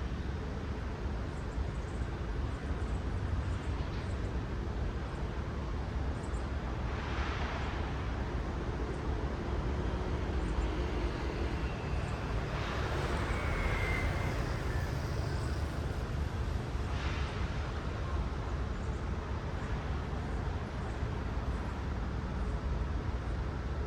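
Road traffic: a steady low rumble of cars, with the tyre hiss of passing cars swelling and fading three times, about a third of the way in, near the middle, and about two-thirds through.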